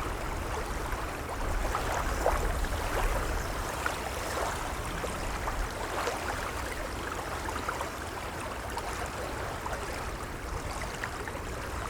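Gentle waves lapping: a steady wash of water with many small splashes over a low rumble.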